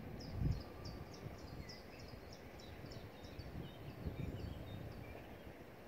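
A small songbird singing a quick series of short, high notes, about five a second, which stops about three seconds in; a few softer, lower notes follow. Low rumbles underneath are loudest about half a second in and again around four seconds.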